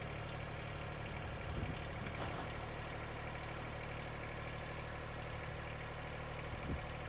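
John Deere 2320 compact tractor's three-cylinder diesel engine idling steadily, with a few brief knocks.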